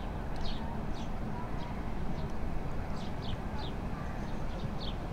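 Short high chirping calls, likely birds, one to three a second and irregularly spaced, each falling slightly in pitch, over a steady low rumble.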